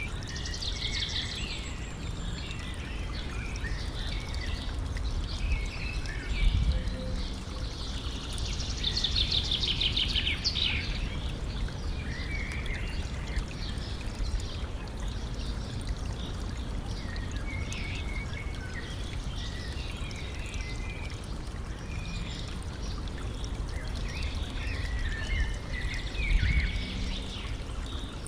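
Stream running and trickling steadily, with songbirds singing in rapid trills and chirps, loudest near the start and again about a third of the way in. Two brief low thuds stand out, one early and one near the end.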